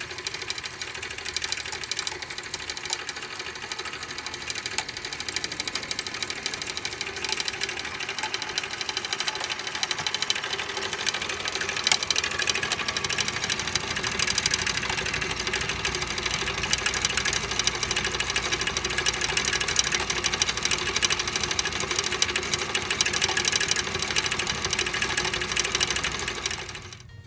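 Small motor-driven machine running with a fast, even clatter; starts and stops abruptly.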